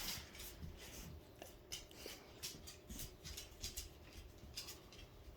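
Faint, irregular clicks and scratches from a pet bird moving about and rubbing in its cage.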